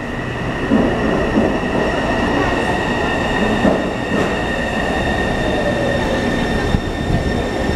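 Taipei Metro C301 subway train with refurbished propulsion running over a low rumble, with a steady high-pitched whine and a tone that falls slowly in pitch in the second half as the train pulls into the station.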